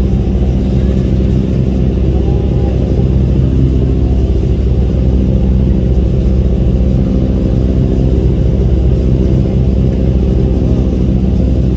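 A ship's engines running steadily: a loud, even low drone with several steady humming tones and no change in speed.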